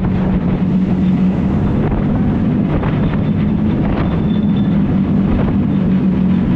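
Jet boat's engine running steadily with a constant low drone, wind buffeting the microphone.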